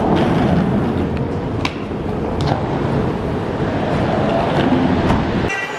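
Steady low rumble of a moving vehicle, engine and road noise, which cuts off abruptly just before the end.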